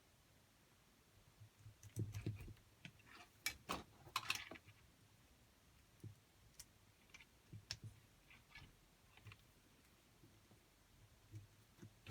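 Faint, scattered clicks and light knocks of small parts being handled, clustered in two short runs with quiet between.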